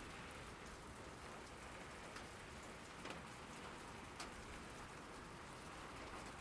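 Steady rain falling, with a few single drops ticking out above the even hiss.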